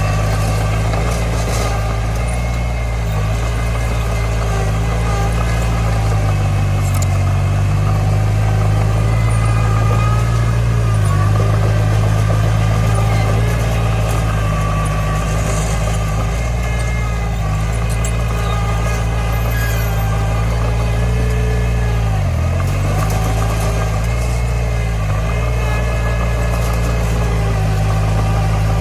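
Komatsu D20 bulldozer's diesel engine running steadily, its pitch sagging briefly a few times as it takes load, the deepest dip a little before the end.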